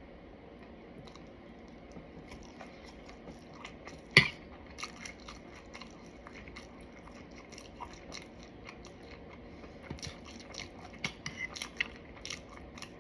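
A person eating crispy fried food close to the microphone: scattered small crunches and mouth clicks, with one sharp loud crack about four seconds in and a quicker run of crunches near the end.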